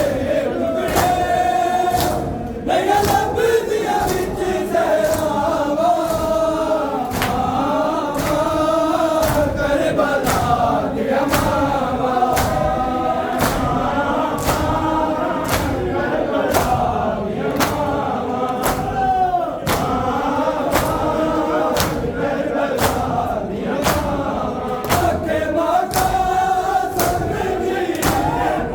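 A group of men chanting a nauha, a Muharram lament, together, with sharp strokes about twice a second keeping the beat, typical of matam (mourners beating their chests in time).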